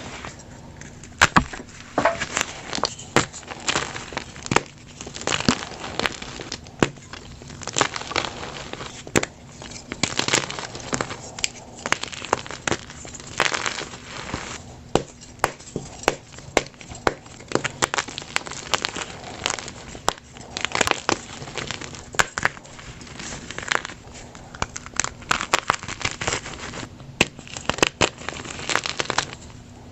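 Plain gym chalk blocks crushed by hand: dense, irregular crunching and crumbling broken by sharp cracks.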